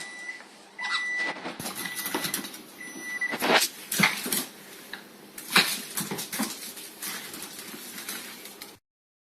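A dog and a parrot making short, sharp calls, the loudest about halfway through, with a thin steady whistle repeated four times in the first few seconds. The sound cuts off abruptly near the end.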